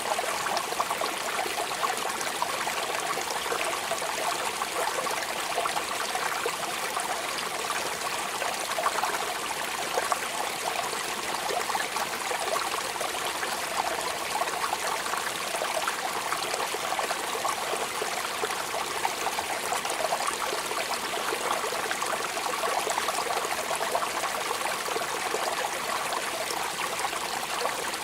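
Steady rain falling, an even rush of noise dotted with many small drop impacts, with no let-up or change.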